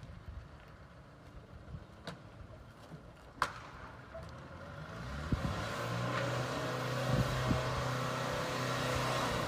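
Car engine and road noise, quiet at first with a couple of sharp clicks, then growing louder about halfway through into a steady engine hum.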